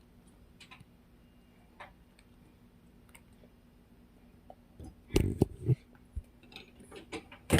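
Faint scattered clicks and taps, then a quick cluster of loud knocks and thumps about five seconds in, and another loud knock near the end.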